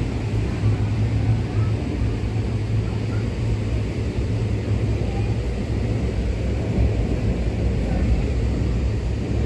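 Steady low rumble of an LHB coach running at speed, heard from inside a closed AC coupe: wheels on the rails and body noise with a constant low hum underneath.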